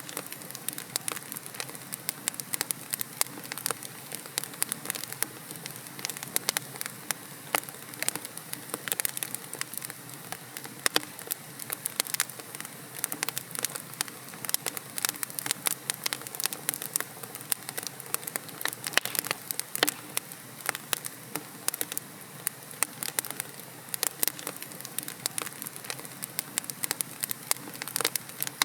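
Wood logs burning in a fireplace, crackling and popping in dense irregular snaps over a steady soft hiss.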